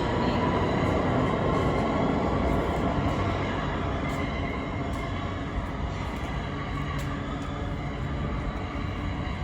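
New York City subway train running through an underground station: a steady rumble with a faint whine, slowly easing off, and a few faint sharp clicks.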